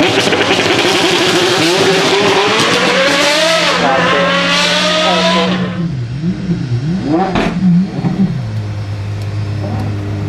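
High-performance car engine accelerating hard, its pitch climbing with one shift partway through, then dropping away after about six seconds. A single sharp blip of the throttle follows, and then the engine settles to a steady idle.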